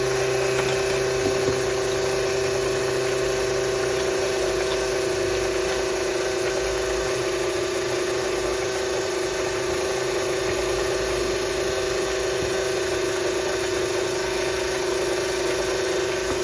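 Steady electric hum with one constant mid-pitched tone and fainter overtones, unchanging throughout.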